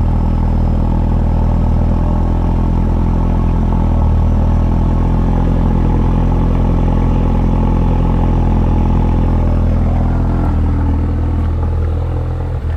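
Car engine idling steadily soon after starting, a smooth low running note. The owner suspects a small crack is letting coolant into the engine, where it is burnt off as steam at start-up.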